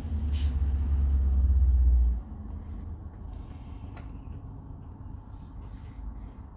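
Conventional school bus engine giving a loud, deep rumble as the bus goes by, dropping off sharply about two seconds in to a fainter, steady vehicle rumble.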